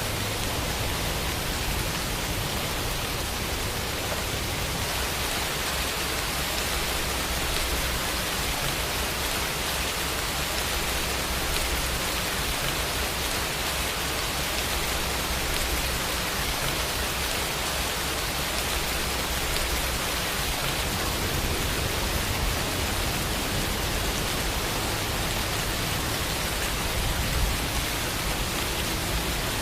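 Steady rain falling, an even hiss with no thunder or other sounds.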